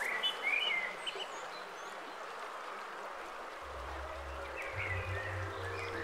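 Short bird chirps over a steady outdoor noise haze, a few near the start and more near the end. A little past halfway, low steady tones come in as music begins to fade in.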